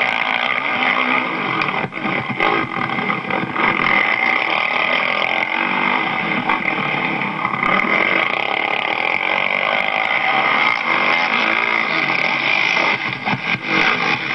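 Motocross dirt bike engine revving up and down as it is ridden around the track, heard close up from a helmet camera.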